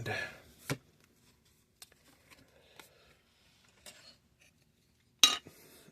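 Trading cards being handled: a few soft taps and slides of cards on a table, with a louder brief rustle about five seconds in.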